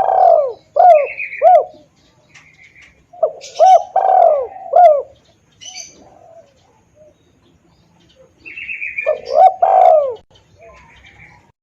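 Spotted dove (tekukur) cooing, used as a lure call: three loud, clear phrases of several arched coos each, about 3 s apart. Brief higher chirps come between the phrases.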